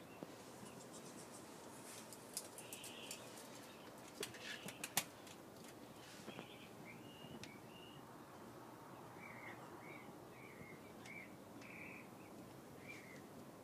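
Faint, short bird chirps repeated every second or so through the second half, with a few sharp clicks about four to five seconds in.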